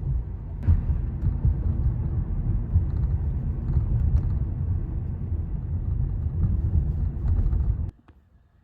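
Loud low rumbling noise with a few faint clicks, cutting off suddenly about eight seconds in.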